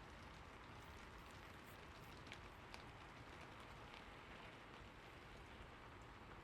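Faint, steady rain, a soft even hiss with a few separate drop ticks now and then.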